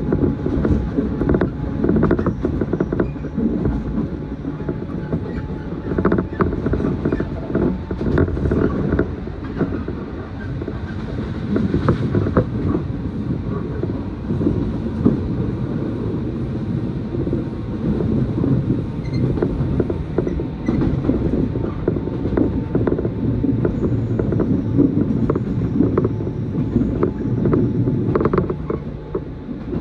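Electric train running between stations, heard from inside the carriage: a steady rumble of wheels on rail with frequent creaks and clicks from the car body.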